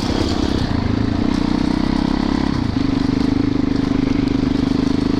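Yamaha YZ450FX dirt bike's single-cylinder four-stroke engine running at a steady pace while riding, stepping slightly higher and louder about halfway through.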